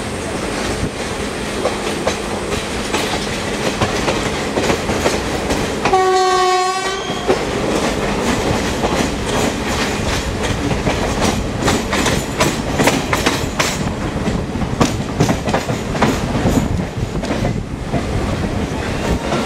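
Passenger train running, with wheels clattering over rail joints, most busily in the second half, heard from an open coach door. About six seconds in, a train horn sounds once for about a second.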